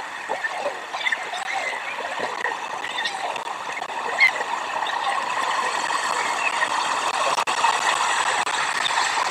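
Steady rain hiss on an outdoor nest microphone, with scattered short bird chirps over it.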